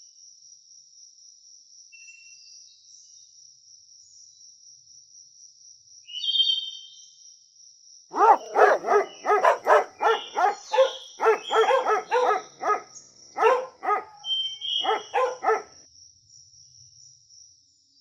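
Puppies barking in a quick run of yaps, about two a second, starting about halfway through and stopping a couple of seconds before the end, with a short break just before the last few. Before the barking there are only a few faint high chirps.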